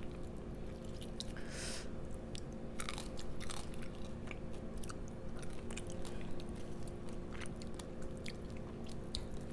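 Crawfish being eaten close to the microphone: scattered small wet clicks and crunches of chewing, over a steady low hum.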